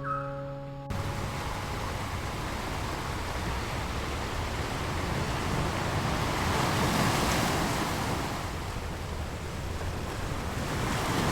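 Ocean waves: a steady rushing of surf that swells about halfway through and then eases off. A mallet-instrument tune plays for the first second.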